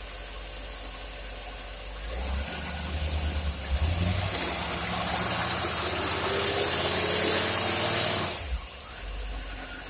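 Engine running on a dyno with a Rochester two-barrel carburetor: it picks up about two seconds in, its speed climbing slowly with a rushing hiss alongside, then drops back abruptly near the end. The tester hears it as not tuned right, with something going on in the carburetor.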